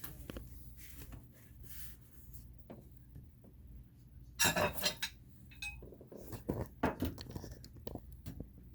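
Metal parts of a laser-engraver kit clinking and knocking together as they are handled. A dense cluster of rattling comes about halfway through, then several separate sharp knocks.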